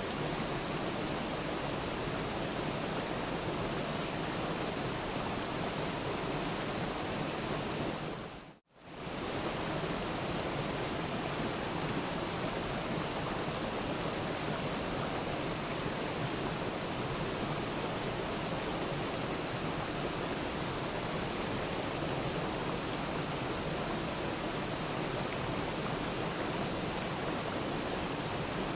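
Steady rushing of a waterfall, an even wash of falling water. About eight and a half seconds in it fades to silence for a moment and comes straight back.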